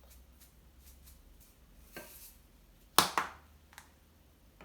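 Kitchen containers being handled on the counter: a few faint taps, then two sharp knocks in quick succession about three seconds in and a lighter tick just after, as seasoning containers are put down and opened.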